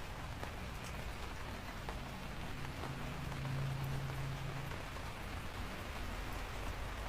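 Steady rain falling, an even hiss. A faint low hum swells for a couple of seconds around the middle.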